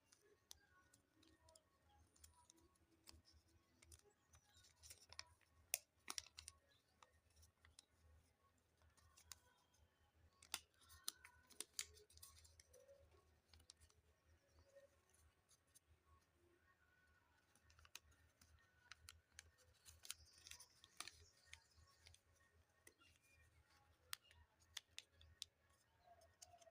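Faint handling of paper: scattered, irregular sharp clicks and crinkles as the sheet is folded and creased, over a low steady hum.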